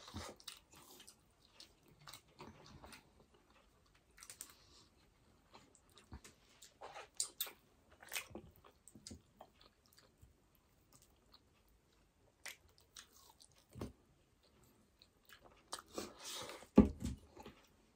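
Soft, irregular close-miked chewing and mouth smacks of people eating burger steak and rice by hand, with a louder click near the end.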